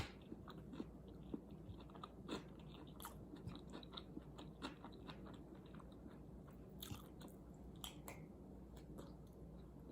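A person chewing a mouthful of food, faint and close, with many small irregular crunchy clicks and wet mouth sounds.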